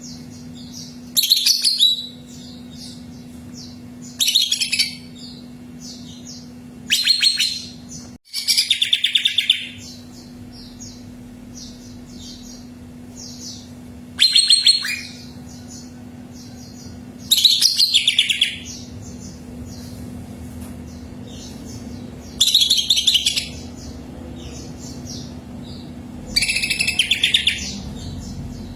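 A cucak ijo (leafbird) singing loud phrases of about a second each, repeated every few seconds, with faint short chirps between them over a steady low hum.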